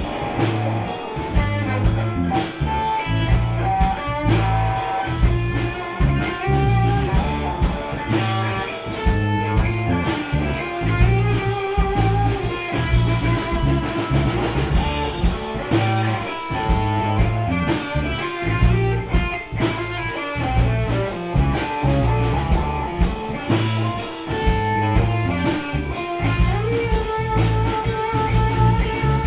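Live gypsy rock band playing an instrumental passage, with guitar and a drum kit keeping a steady driving beat and held melodic notes over it.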